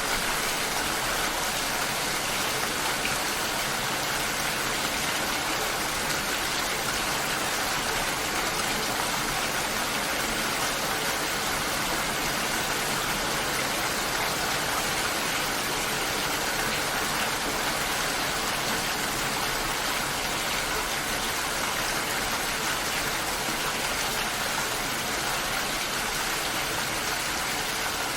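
Steady, dense rainfall: an even, unbroken hiss of rain with no change in strength.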